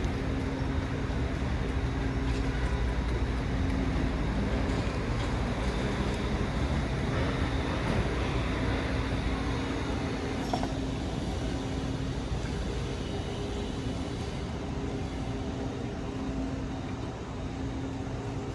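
City street traffic: motor vehicles running, with a steady low engine hum over a constant rumble and hiss.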